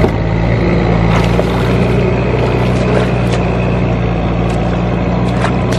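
Tractor engine running steadily under load as it works the field, with a few faint clicks over it.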